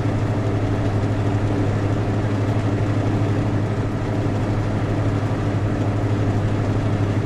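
Vehicle engine running steadily: an even, low drone with road noise, no change in pitch or level.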